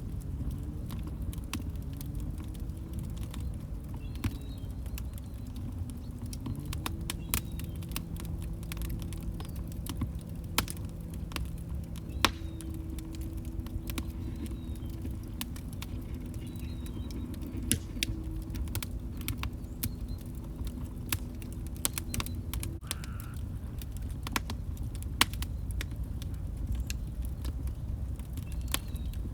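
Log fire crackling: a low, even rumble of burning with frequent sharp snaps and pops from the wood, a few louder than the rest. A faint low tone rises in pitch in the first few seconds, holds steady under the crackle, and stops about three quarters of the way through.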